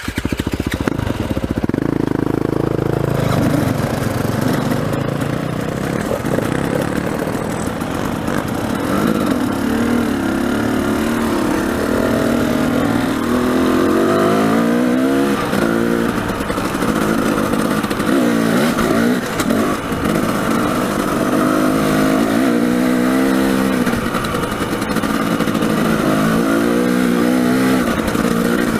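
Dirt bike engine running under constant throttle changes, its pitch climbing and dropping over and over as it is ridden along a rough trail.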